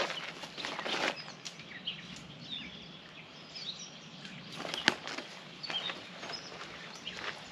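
Birds chirping in short calls over a low steady hum, with scattered rustles and clicks, the loudest about five seconds in.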